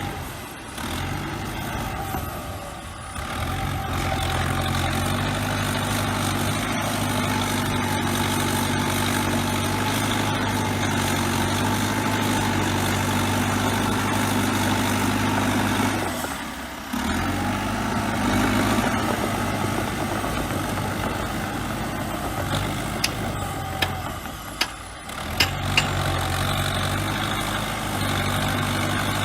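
Heavy diesel bulldozer engine running steadily under a working drone, dipping out briefly twice. A few sharp metallic clicks come about three-quarters of the way through.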